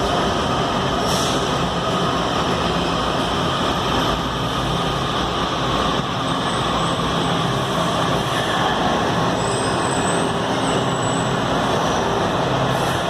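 Washington Metro train running through the station: a steady, loud rumble of wheels on rail and traction motors, with a few faint high squeals about ten seconds in.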